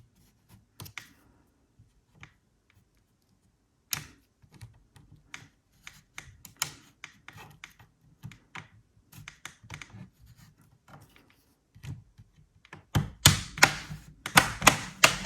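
Plastic spudger prying along the seam of an MSI GE63 Raider laptop's bottom case: scattered small clicks and scrapes, then a quick run of louder clicks and snaps near the end as the case's clips pop loose.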